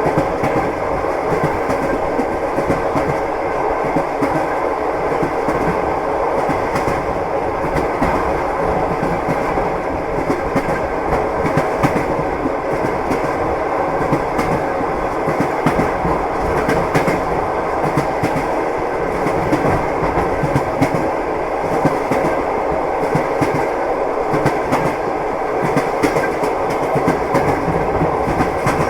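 Train wheels clattering over the rails, with repeated clicks over a continuous rumble.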